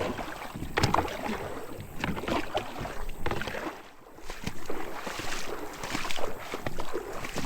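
Water sloshing and splashing around a pedal-driven kayak under way upriver, in uneven short splashes and knocks.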